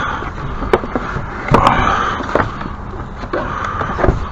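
Scattered knocks and clunks of objects being handled and moved about, over a steady outdoor background hiss.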